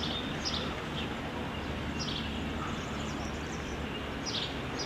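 Birds in the trees giving several short, high chirps a second or two apart, over steady outdoor background noise.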